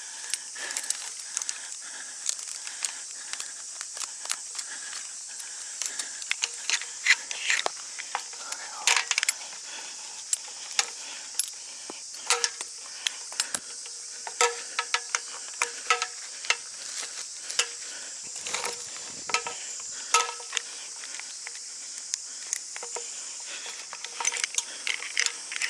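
Scattered light metallic clicks and clinks of gear being handled, irregular and with no steady rhythm, over a steady high-pitched insect drone.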